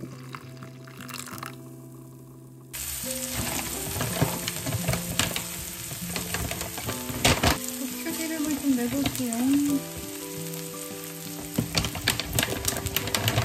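Chopped green onions sizzling in hot oil in a frying pan as chili oil is made, stirred with a wooden spoon that knocks against the pan. The sizzling starts suddenly about three seconds in.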